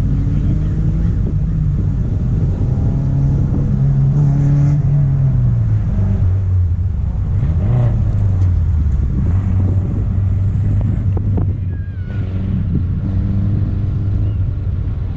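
Toyota Corolla rallycross car's engine revving hard from inside the car, its pitch climbing and falling as the driver works the throttle, with a brief drop near 12 s and a few short knocks from the car on the loose course.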